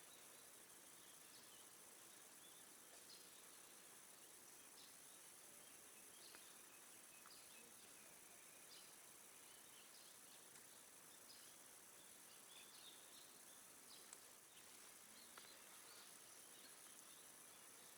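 Near silence: faint outdoor ambience with scattered short, high chirps every second or so.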